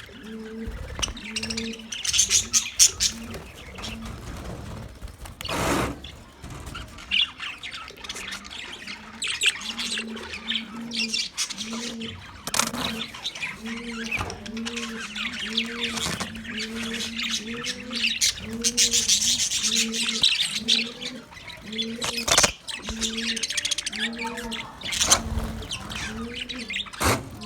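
Budgies chirping and chattering in high, busy trills, over a low call that repeats about once a second, with a few sharp knocks.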